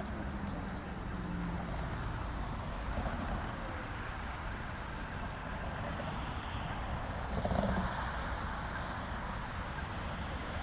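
City road traffic: a steady low rumble of passing cars, with a brief louder swell about seven and a half seconds in.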